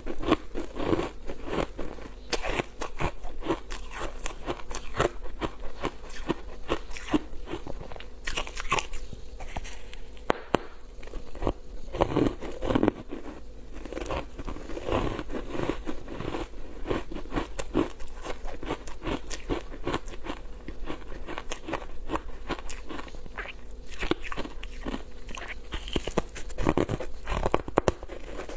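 Close-miked biting and chewing of crunchy foam ice dusted with matcha powder: continuous dense crackling crunches.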